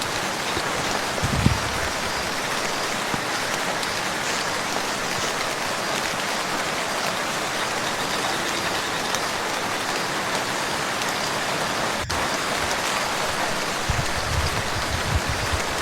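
Steady rain falling on a lake surface, a dense even patter, with a few low thumps about a second and a half in and again near the end.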